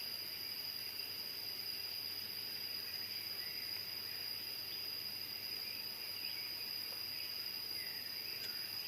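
Insects calling steadily in a continuous high-pitched drone, with a second, even higher band above it, and a few faint short chirps in the second half.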